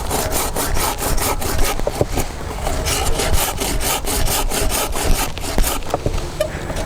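A hand saw cutting through an apple-tree branch in fast, regular back-and-forth strokes that stop shortly before the end.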